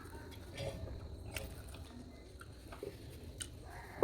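Close-up eating of masala chicken curry: chewing and mouth noises, with small scattered clicks and wet smacks.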